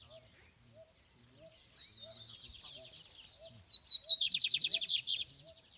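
Bigodinho (lined seedeater) singing: a run of quick, varied high notes that ends in a loud, fast trill about four seconds in. A faint chirp repeats evenly underneath.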